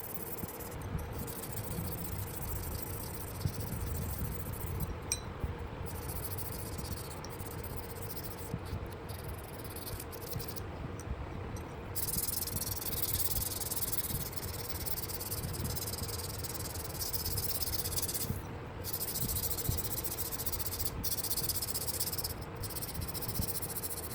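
Steady abrasive hiss of steel being worked against an abrasive, with a low rumble and faint steady hum underneath. The high hiss breaks off briefly every few seconds.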